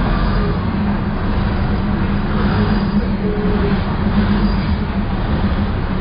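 Maeklong line diesel train running slowly, with a steady low engine drone and rumbling wheels.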